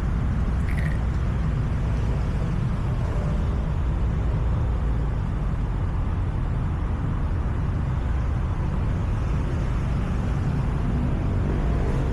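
Steady low rumble of road traffic, unbroken and even in level.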